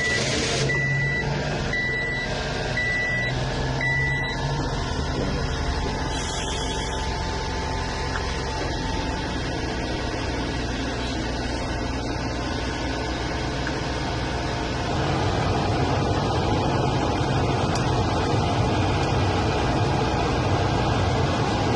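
1995 Honda Acty truck's three-cylinder engine starting and then idling steadily, with a short high warning beep repeating roughly once a second for the first four seconds. The engine gets louder about fifteen seconds in.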